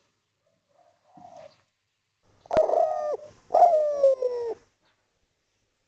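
Spotted dove (derkuku/tekukur) cooing: two loud coos in quick succession, each starting abruptly, the second longer and sliding slightly down in pitch.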